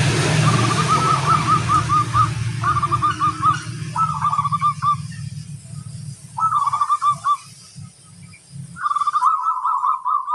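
Perkutut (zebra dove) cooing: about five phrases of quick, repeated rolling coos with short pauses between them. A low steady rumble, like distant traffic, sits under the first few seconds and fades out about halfway through.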